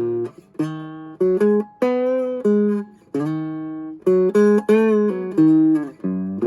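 Vintage Silvertone hollowbody electric guitar played clean: chords and single notes picked in quick phrases, each struck sharply and then left to ring and fade.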